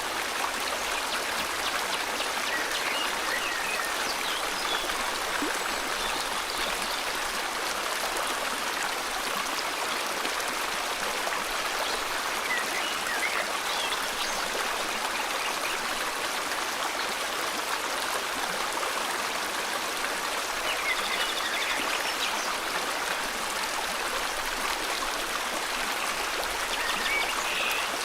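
A river flowing steadily over rocks, an even rushing babble, with a few faint bird chirps now and then.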